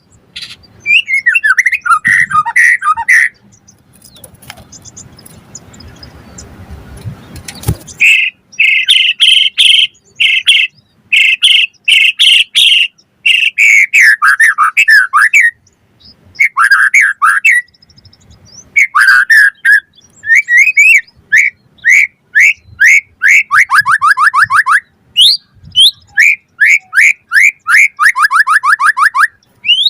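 White-rumped shama singing loud, varied phrases of whistles and chirps, with fast rattling trills of falling notes twice in the latter half. Early on its song breaks off for about five seconds of low scratchy noise.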